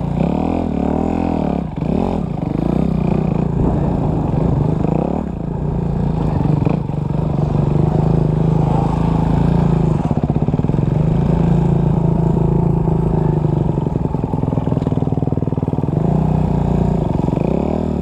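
Dirt bike engine revving up and down under light throttle for the first few seconds, then holding a fairly steady pitch through the middle, and revving up and down again near the end.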